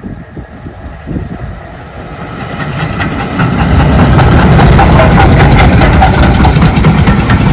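A train passing close by: its rumble grows louder over the first few seconds, then runs loud and steady with a fast, fine rattle.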